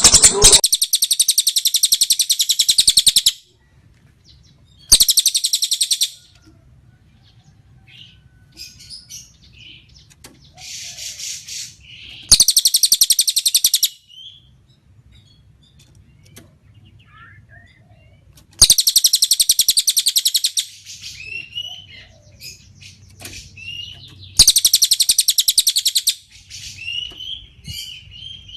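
Cililin bird (tengkek cililin) singing: five loud bursts of a very fast, high, rattling trill, each one to three seconds long, with soft scattered chirps in the gaps between them.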